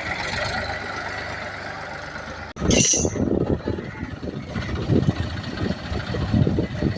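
Tractor engine running steadily. About two and a half seconds in, the sound breaks off abruptly; a short hiss follows, then the engine continues louder and uneven.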